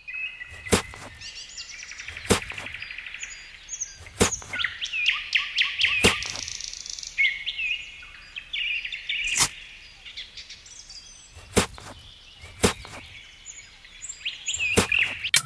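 Birds chirping and trilling continuously, with about eight sharp clicks or knocks scattered through it.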